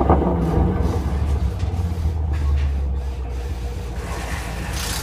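2016 Shelby GT350R's 5.2-litre flat-plane-crank V8 dropping back from a rev to a steady low idle through its exhaust. A hiss comes in near the end.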